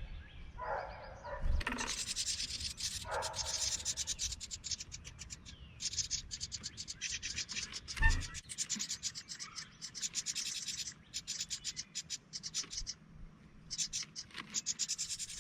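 Wren nestlings begging at the nest: fast bursts of rapid, high, scratchy calls, with a single soft knock about eight seconds in.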